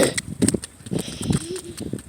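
Irregular clicks and taps outdoors, like quick footsteps, mixed with short bits of a child's voice.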